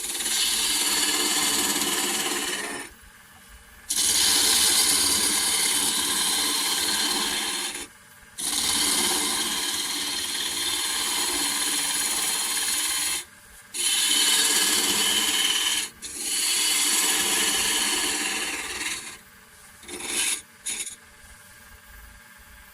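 Turning tool cutting wood spinning on a Holzmann D460FXL lathe: a rough scraping noise in five long passes of two to five seconds each with short breaks between, then a few brief touches near the end.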